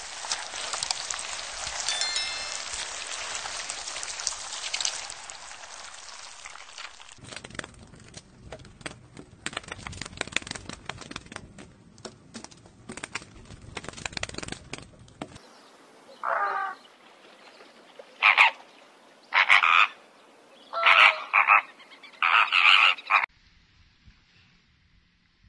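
Several spliced animal recordings: first a dense steady chorus with clicks, then irregular crackling, then five loud short animal calls about a second and a half apart.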